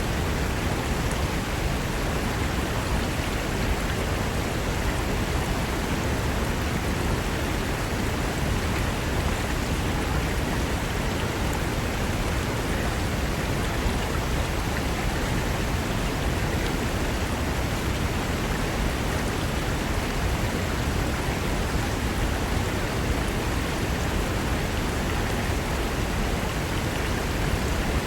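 Fast mountain river rushing over rocks: a steady, unbroken rush of water.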